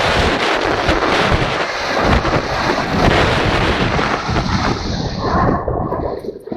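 Loud wind buffeting on the microphone, a dense rushing noise with low irregular rumbles, easing off about five and a half seconds in.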